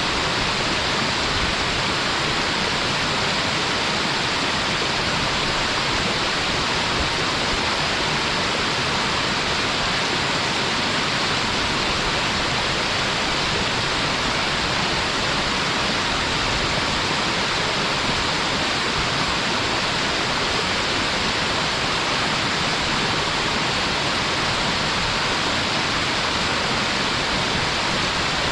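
Waterfall: the steady, even rush of water falling and splashing, with no change in level.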